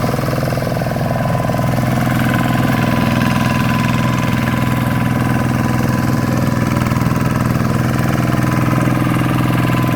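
Two-wheel hand tractor's Kubota RV125-2 single-cylinder diesel engine running steadily at an even speed, with a rapid chugging beat.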